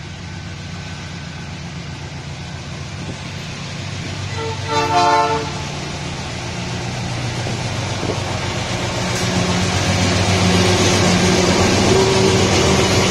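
Freight train hauled by several diesel-electric locomotives approaching and passing close by, the engines' low drone growing steadily louder. A short horn blast sounds about five seconds in, and near the end the passing locomotives and wheels on the rails make a loud rumble.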